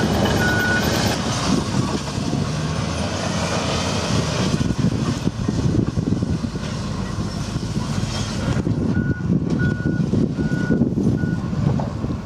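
Heavy vehicle engine running steadily, the Type 94 amphibious mine-laying vehicle. A reversing warning beeper sounds in short, evenly spaced beeps just after the start and again in a run of about five beeps near the end.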